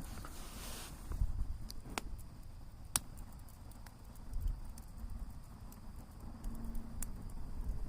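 Wood campfire crackling, with scattered sharp pops at irregular intervals over a low rumble; a steady hiss dies away about a second in.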